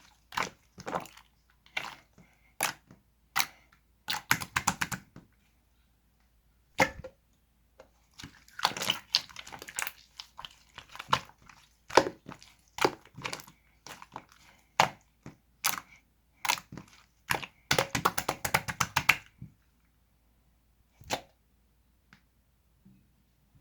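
Slime being squeezed and poked by hand, making scattered sharp clicks and pops. Two dense crackling runs come about a third of the way in and again near the end.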